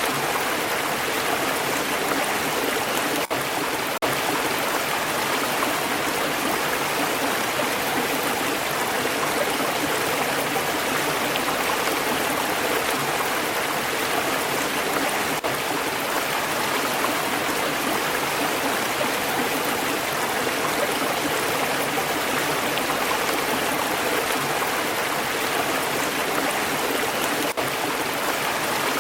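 Stream water flowing steadily: an even, continuous rush and babble with no breaks.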